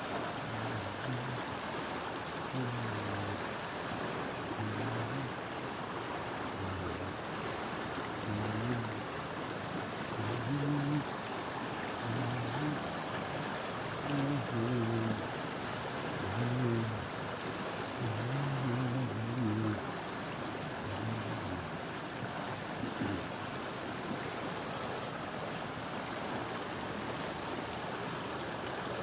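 Steady rushing of flowing water, with low, indistinct voices talking on and off until about two-thirds of the way through.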